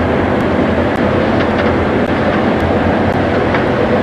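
Boat's engine running steadily under way, a low drone under a constant rush of noise.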